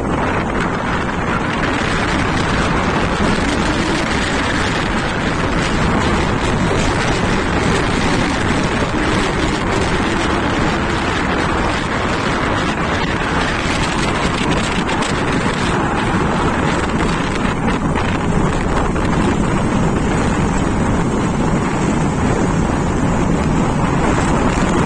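Steady rumble of a passenger train running on the station tracks, mixed with wind buffeting the microphone.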